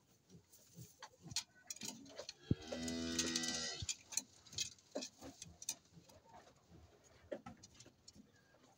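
A cow mooing once, a single call of just over a second about two and a half seconds in, among small scattered clicks and rustles.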